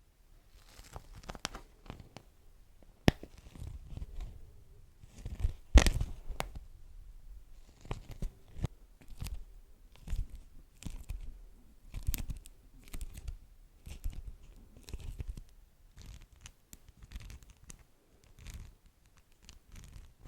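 Beeswax wrap being crinkled and pulled, with irregular crackles, tearing-like sticky peels and a few sharp clicks. The loudest crackle comes about six seconds in.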